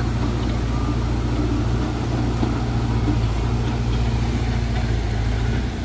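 A motor vehicle's engine idling steadily, a low even drone.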